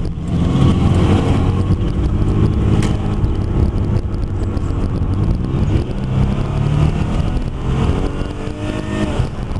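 A Chrysler's 2.7-litre V6 pulling the car along the road under throttle, with steady road noise. The engine note climbs as the car speeds up, about halfway through and again near the end.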